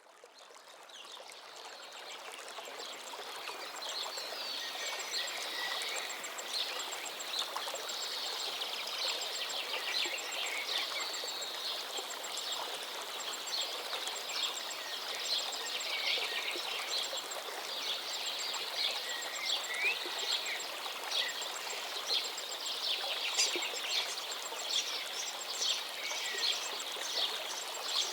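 Many small birds chirping and singing over a steady rush of running water, fading in over the first few seconds.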